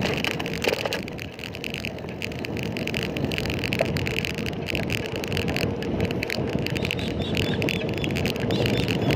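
Steady ride noise from a moving bicycle on the road: tyres and rushing air, with no single sound standing out.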